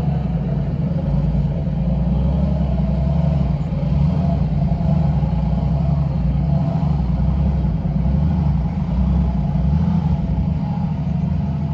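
Heavy diesel engine running steadily, a loud, even low drone with no breaks.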